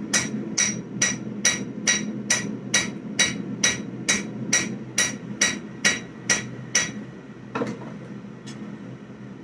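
Hand hammer striking a hot 1095/15N20 twist damascus billet on an anvil: about sixteen even, ringing blows a little over two a second, flattening the bar to smooth out grooves and lumps. The blows stop about seven seconds in, followed by two lighter knocks.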